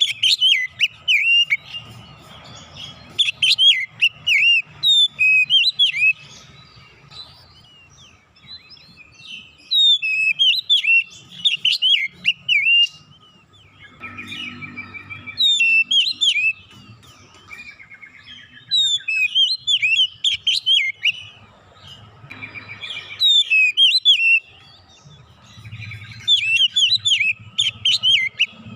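Oriental magpie-robin (kacer) singing: bouts of rapid, loud whistled and chirping notes that sweep up and down in pitch, broken by pauses of a second or two.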